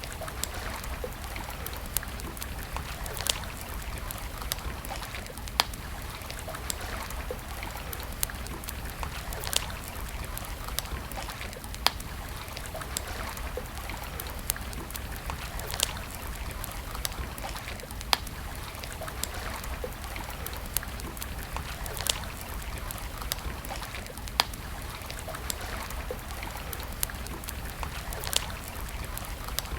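Wood campfire crackling, with sharp pops every second or two over a steady rushing hiss.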